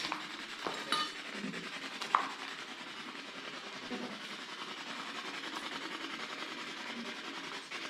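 A few light knocks and clicks in the first two seconds, then a steady faint hiss with small scuffing noises.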